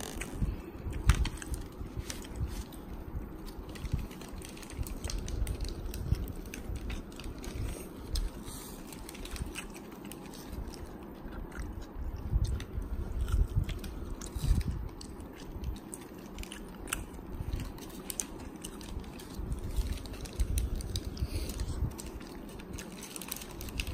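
A person biting and chewing a soft egg burger (bun, fried egg, lettuce and sauce) close to the microphone, with irregular mouth sounds and small clicks.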